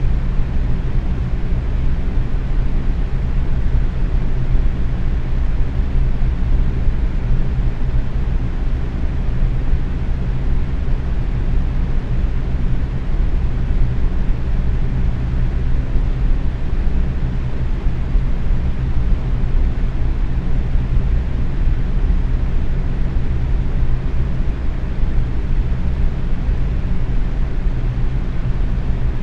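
Box fan running steadily at medium speed: an even whoosh of moving air over a low, constant hum.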